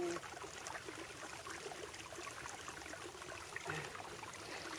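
Faint trickling water of a small stream, with scattered light crackles and rustles.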